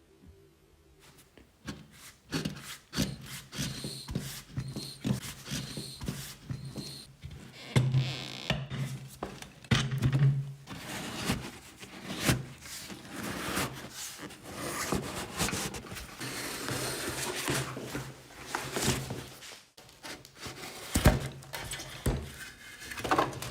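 Irregular knocks, clatter and scraping from workshop hand work, starting about two seconds in, over a steady low hum.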